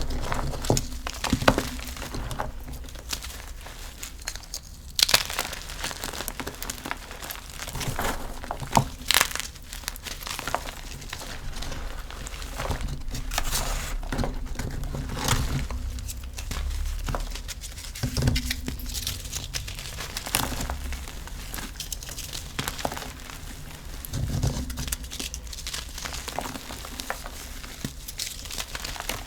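Gym chalk being crushed and crumbled close to the microphone: a continuous run of crisp, irregular crunches and crackles.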